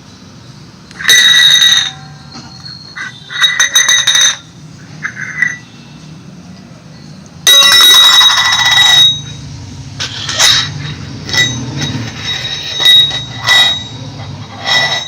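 A baby's noise-making toy giving repeated bursts of high, buzzy electronic ringing. There are about eight bursts, the longest lasting about a second and a half.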